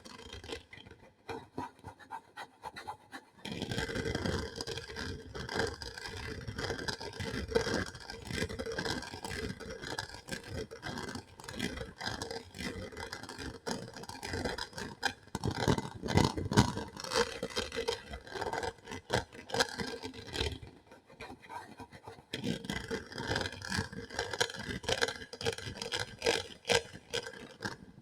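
Close-miked ASMR scratching and scraping, a dense run of small crackly strokes. It pauses briefly near the start and again about three-quarters of the way through.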